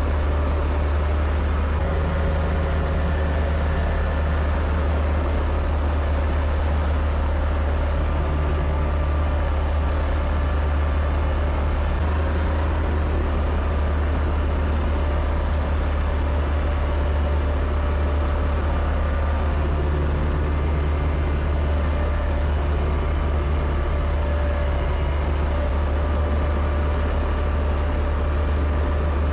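Kubota tractor engine running steadily under load with a deep, even drone.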